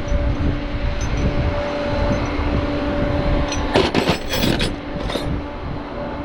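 A vehicle driving: steady low engine and road rumble with a constant hum, and a short burst of rattling clicks about four seconds in.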